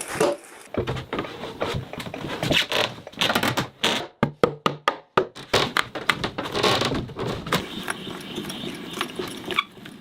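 Hand-tool work on wood: a run of separate knocks and taps, with a quick cluster of sharp clicks about three to five seconds in.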